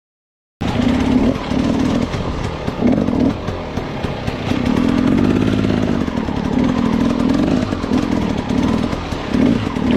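Motorcycle engine revving in repeated bursts about once a second, with one longer rise and fall of revs in the middle; it starts abruptly about half a second in.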